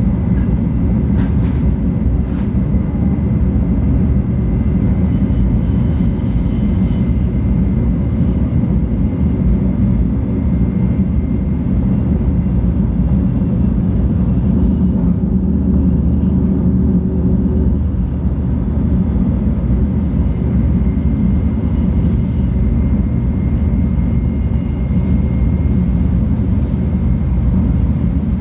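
Steady running noise inside the passenger cabin of a 700 Series Shinkansen travelling at speed: a continuous low rumble with a faint steady whine above it, and two light clicks in the first few seconds.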